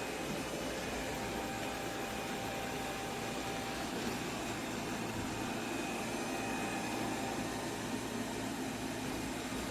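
iRobot Roomba 105 vacuum system running with steady, unbroken suction noise and a faint hum.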